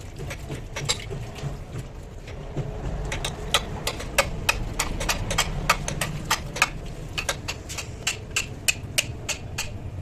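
Hand tools working on truck drum-brake parts: a quick, irregular run of sharp metal taps and clicks, several a second, over a steady low rumble.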